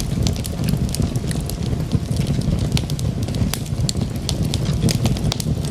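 Wood logs burning in a fireplace: many quick, sharp crackles and pops over a steady low rumble of the flames.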